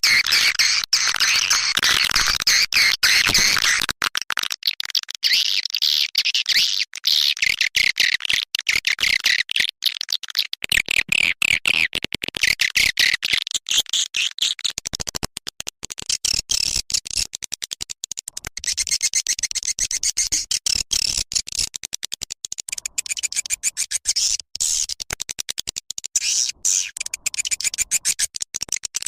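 Swiftlet lure recording: dense, rapid, high-pitched twittering and chirping of swiftlets, broken by short gaps. This kind of call sound is played to attract swiftlets to a nesting house.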